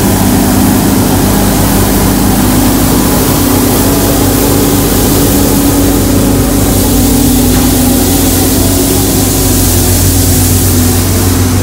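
A vehicle engine idling: a loud, steady low hum that holds one pitch throughout, with a hiss above it.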